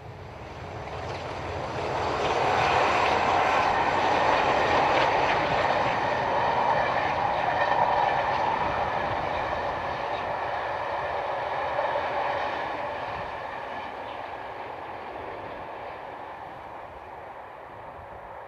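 Class 47 diesel locomotive and its train passing at speed: the sound builds over about two seconds, stays loud for around ten seconds, then fades into the distance.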